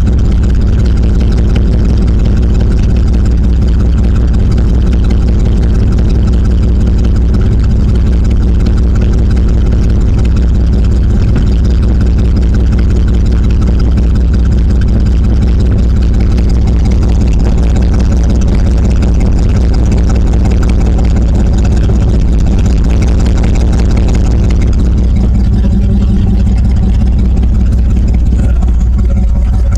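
1996 Dodge Ram 1500's engine idling steadily through a cut exhaust that dumps under the truck just after the rear O2 sensor, with the catalytic converter still in place. Recorded up close, it overloads the phone microphone, which loses the bass and adds odd distorted sounds.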